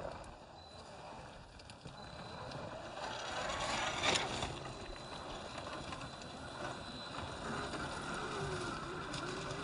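RC4WD Gelande II 1/10-scale RC crawler driving over dirt: tyres crunching and scraping on soil and small stones, with its electric motor and drivetrain whirring. A louder scrape swells up and peaks about four seconds in.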